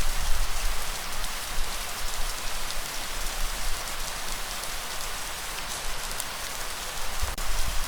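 Steady rain falling: a dense, even hiss with scattered sharper hits of single drops.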